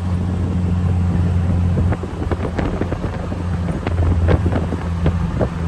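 Engine of an open-cockpit car cruising at highway speed: a steady low hum, with wind buffeting and crackling on the microphone.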